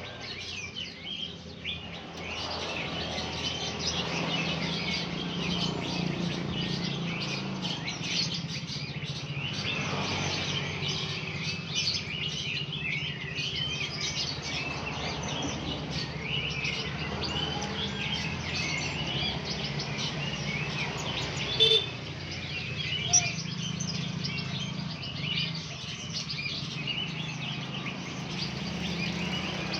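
Many blue-crowned hanging parrots chirping together in dense, overlapping high tweets, over a steady low hum. Two sharp clicks stand out a little past the middle.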